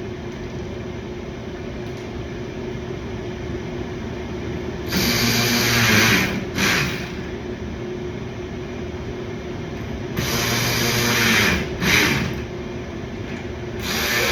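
Cordless power ratchet whirring in short runs of about a second, with pauses between them, as it drives in the bumper's mounting hardware.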